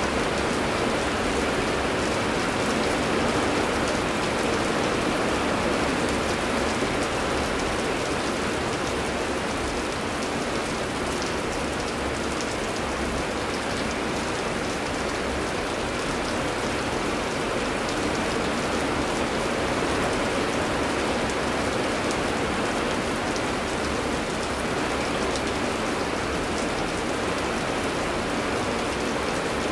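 Steady heavy rain falling and pattering on surfaces, with scattered droplet ticks.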